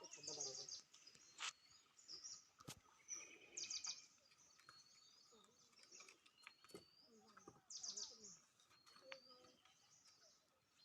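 Faint birds chirping in scattered short bursts and brief whistled calls, with a couple of sharp clicks.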